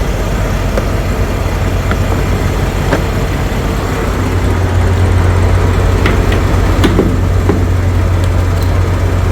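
Semi truck's diesel engine idling: a steady low hum that grows louder about halfway through, with a few light clicks over it.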